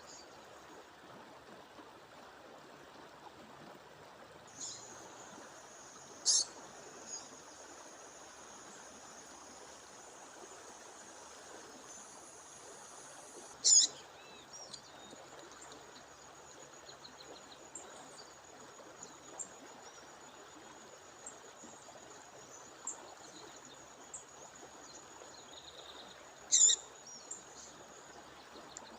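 A female songbird giving short, sharp, high-pitched calls, three of them loud (about six seconds in, near the middle, and near the end), with fainter chirps between, over the steady rush of a waterfall. A thin, steady, high whine runs under the calls from about four seconds in.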